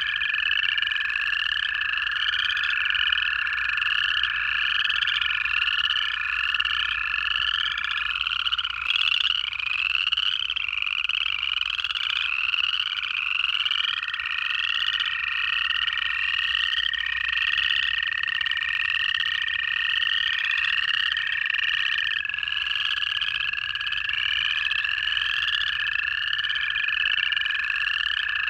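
A dense chorus of upland chorus frogs, their rising trills repeating without pause and overlapping one another. Long, steady, even-pitched trills of American toads run beneath, one after another, one ending and another starting partway through.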